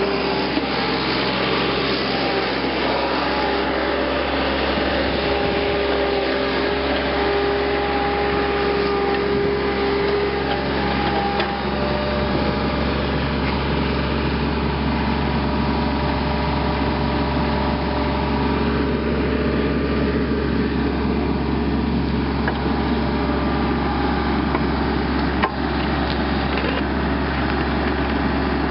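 A power tool with a wire brush running steadily against a steel tractor rim, scrubbing off rust, its motor tone drifting slightly as the load changes. There is a short knock near the end.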